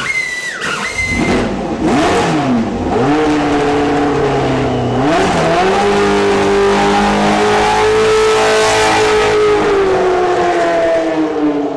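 A historic Formula 1 car's racing engine revving hard, with quick drops and climbs in pitch in the first few seconds like gear changes, then a steep climb to a high, held note that eases down near the end.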